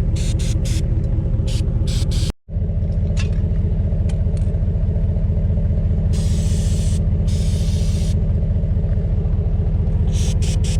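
Vehicle engine idling steadily with a low rumble. Two hisses of about a second each, a few seconds apart, come from an aerosol can of motorcycle chain lube being sprayed on the trailer hitch, and a few sharp clicks sound in the first two seconds.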